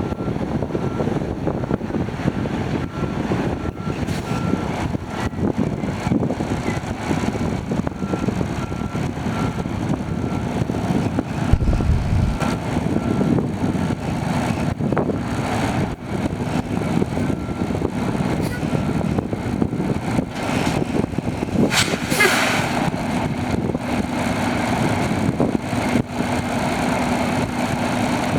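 Freightliner Cascadia semi truck's diesel engine running, with a string of evenly spaced short beeps over the first third and a brief hiss about three-quarters of the way through.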